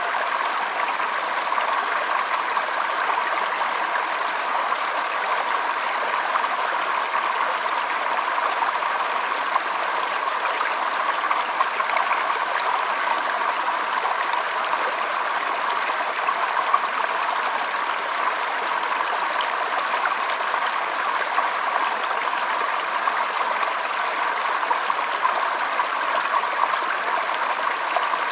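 Running water flowing steadily, an even rushing with small splashy flickers and no change in pace.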